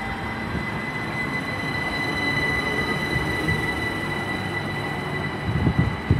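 A pair of Class 387 electric multiple units departing the platform: the train rumbles on the rails under a steady high-pitched whine.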